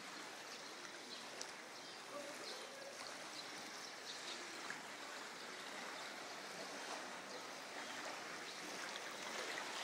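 Floodwater flowing past in a strong current: a steady, even rush of water.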